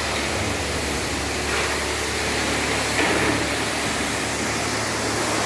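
Steady hiss of a car-wash sprayer at work, over a low machine hum.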